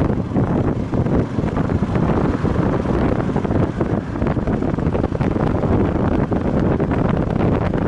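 Strong wind buffeting the microphone on a moving Viper V250C cruiser motorcycle: a steady, fluttering rush that buries the engine.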